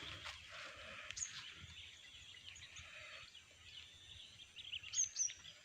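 Faint outdoor ambience with scattered bird chirps, a short high call about a second in and a couple more near the end.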